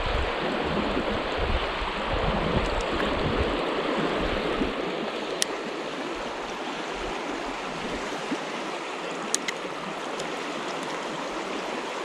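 River water rushing steadily over rocks, with a low rumble under it for the first few seconds and a few faint ticks later on.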